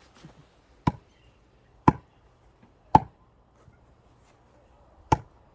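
Axe striking a round of firewood four times, three blows about a second apart and a fourth a couple of seconds later, each a sharp chopping knock.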